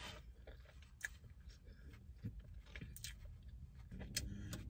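Faint chewing of a person eating a chicken sandwich, with scattered soft mouth clicks.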